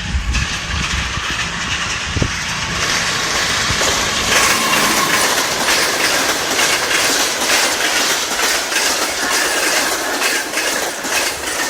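Train running on the rails: a steady loud rush of wheel and track noise, growing louder about four seconds in, with repeated clicks of the wheels over the rail joints.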